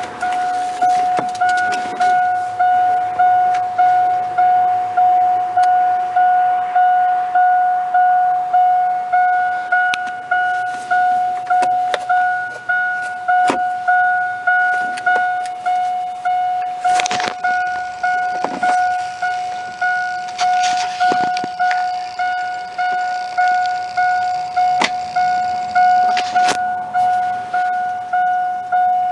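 2000 Chevrolet Silverado's dashboard warning chime dinging over and over, about one and a half dings a second, each ding fading before the next. A few short knocks and rustles of handling in the cab come through it.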